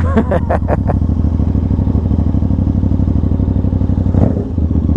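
Aprilia RS660's parallel-twin engine running at low, steady revs through an SC-Project S1 full titanium exhaust, a quick, even train of exhaust pulses.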